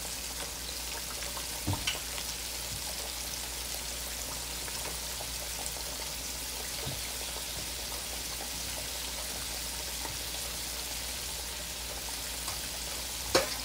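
Chicken slices deep-frying in oil in an aluminium pot on medium heat: a steady sizzle with scattered crackles. A few short knocks, the loudest near the end.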